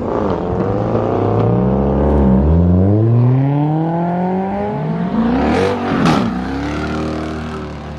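Car engine accelerating hard, its pitch climbing, dropping at a gear change about two and a half seconds in, then climbing again; a short loud burst comes near six seconds in.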